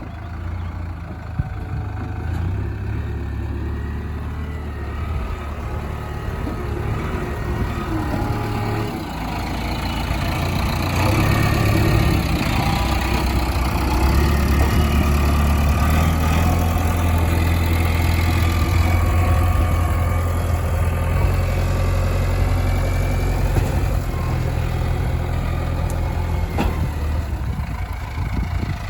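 Diesel engine of a JCB 3DX backhoe loader running steadily, growing louder about ten seconds in and holding there until it eases off near the end.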